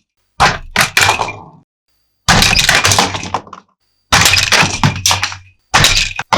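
Hard plastic toy pieces crashing and clattering, most likely toy monster trucks and playset parts. It comes in about five separate bursts, each starting with a sharp hit and rattling away within about a second, with dead silence between them.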